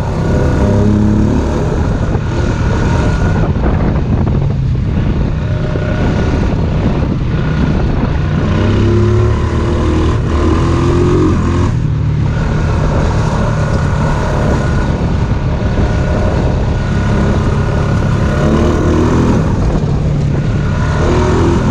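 Small Honda ATV engine running while riding a trail, its revs rising and falling with the throttle.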